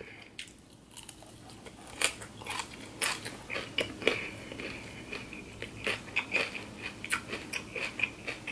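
Chewing a mouthful of crunchy raw salad of kale, shredded cabbage and carrot: irregular crisp crunches that start about a second in.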